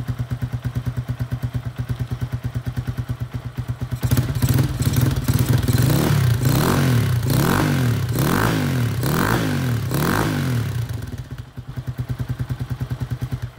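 Lifan KP Mini 150's single-cylinder engine breathing through an aftermarket KP Mini exhaust with its baffle in, idling with a steady pulse. From about four seconds in it is blipped through a series of quick revs, then it drops back to idle near the end.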